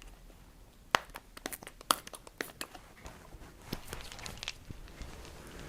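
Irregular crackling and sharp clicks of material being handled and moved about for roughly three and a half seconds, a few clicks much louder than the rest, then quieter rustling.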